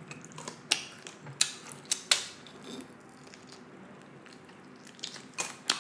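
Close-miked eating of a steak: a scatter of sharp clicks over the first two seconds, a quieter pause, then a few more clicks near the end.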